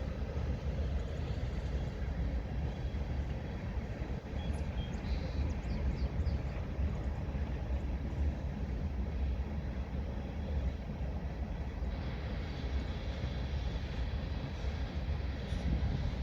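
Steady low rumble of a diesel-hauled petroleum tanker freight train running on the line, with a few faint high chirps about five seconds in.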